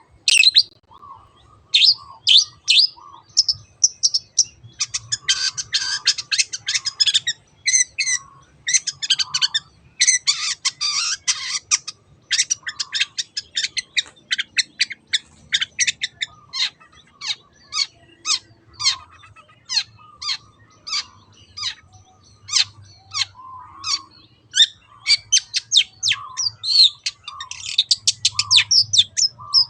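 Long-tailed shrike singing: two stretches of dense, scratchy chattering in the first half, then a steady run of short, sharp notes about two a second, interleaved with lower notes.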